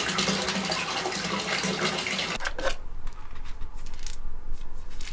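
Water running from a bathroom tap or shower, with a low hum under it, shut off about two and a half seconds in; a few light clicks and knocks follow.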